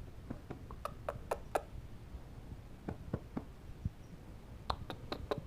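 Faint, scattered clicks and taps, about a dozen at uneven spacing, with a small cluster about a second in and another near the end.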